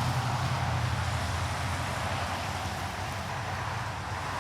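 Road traffic noise: a steady low hum with a wider hiss over it, strongest in the first couple of seconds and easing after.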